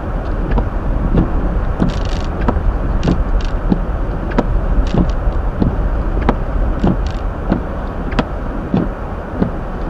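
Hyundai Elantra driving on a snowy, slushy road, heard from inside the cabin: a steady low rumble of tyres and engine, with light knocks coming about every half second.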